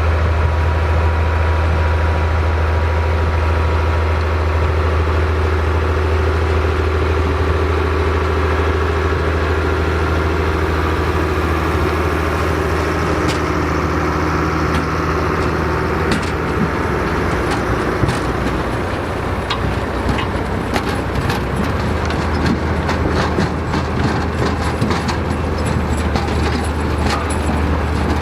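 Vintage tractor engine running steadily at low speed. In the second half a run of sharp clattering knocks from working machinery joins it.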